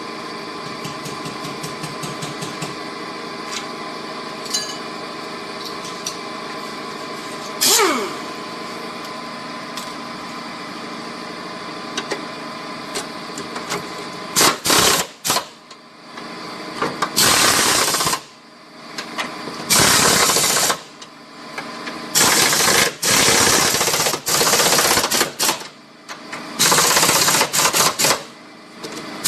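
A steady mechanical hum, then from about halfway on repeated loud rattling bursts of one to two seconds each, an impact wrench working bolts on the car's engine mounts. A single quick falling whoosh sounds near the end of the hum.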